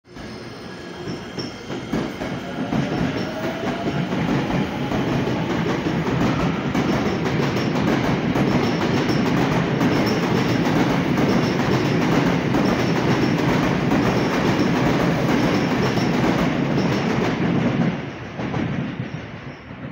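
Seibu 20000 series electric commuter train running past on the rails, a loud steady rush with a fast clatter of wheels over the track. The sound builds over the first couple of seconds and drops away near the end as the last car goes by.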